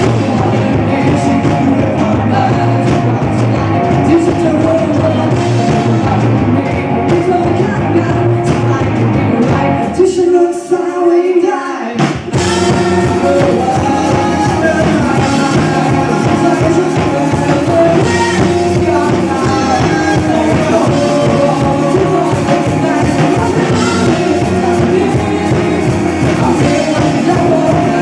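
Rock band playing live with singing. About ten seconds in, the bass and drums drop out for roughly two seconds, then the full band comes back in.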